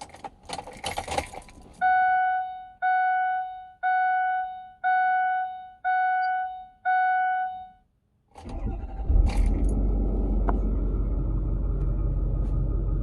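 Keys jangle, then a dashboard warning chime sounds six times, about once a second. About eight seconds in, the 2010 Ford F250's 6.4-litre Power Stroke V8 diesel cranks and catches, then idles with a steady low rumble through its stock 4-inch exhaust, heard from inside the cab.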